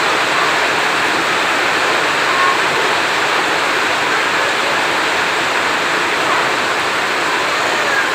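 Heavy rain falling steadily, an even, unbroken hiss with no thunder clap.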